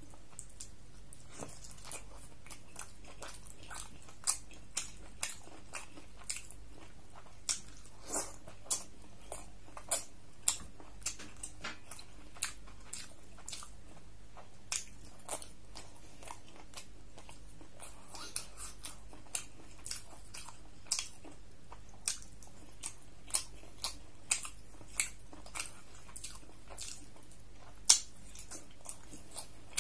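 Close-up chewing and biting of beef curry and paratha, with sharp mouth clicks and smacks coming irregularly about once or twice a second over a steady low hum; the loudest click comes near the end.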